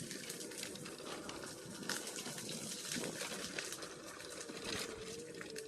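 Bird electric scooter rolling slowly over a dirt trail: a steady hiss of tyre and ride noise with small clicks and rattles, and a thin, steady whine from its hub motor that grows clearer over the last couple of seconds.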